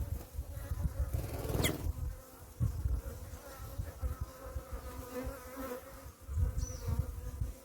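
Bees buzzing steadily around papaya fruit as they feed, a hum pitched near 500 Hz. Irregular low rumbles come and go underneath, with a quick falling high whistle about two seconds in and a short high chirp near the end.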